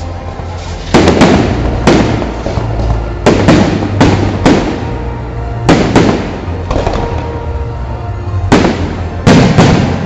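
Fireworks bursting overhead: a dozen or more sharp bangs in quick clusters, some in twos and threes, with music playing underneath.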